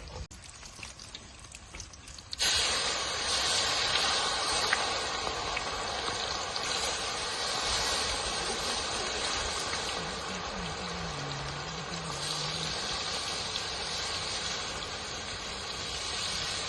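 Marinated chicken kebab pieces frying in hot oil: a steady sizzle that starts suddenly a couple of seconds in.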